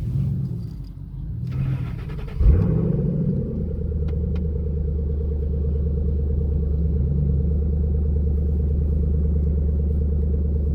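2012 Shelby GT500's 5.4-litre supercharged V8 revved once briefly about two seconds in, then settling into a steady idle.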